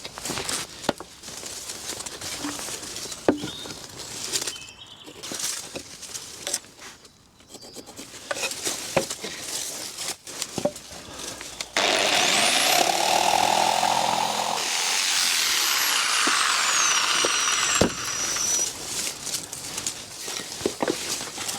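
Knocks and clatter of timber boards being handled, then a power saw cutting through a rough-sawn fence gravel board for about six seconds, starting about halfway through.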